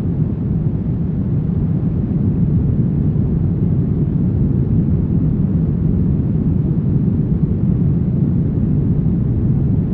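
Steady brown noise: an even, deep rumbling hiss with its weight in the low end and little treble, unchanging throughout.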